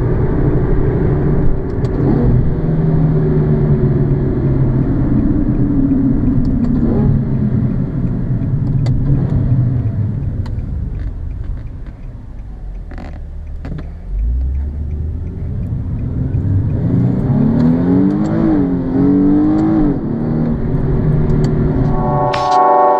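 Nissan 370Z's 3.7-litre V6 engine and exhaust heard from inside the cabin while driving: the engine note falls as the car eases off and slows to a low drone about halfway through, then the revs climb twice with a brief dip between, a gear change, before dropping back. Music starts right at the end.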